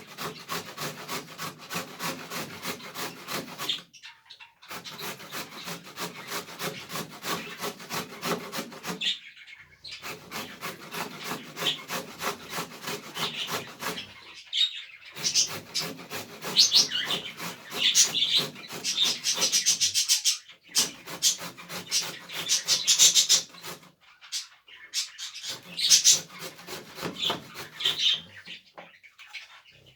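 Albino budgerigar warbling: runs of fast, buzzy chatter a few seconds long, broken by short pauses, with sharper high chirps mixed in during the second half.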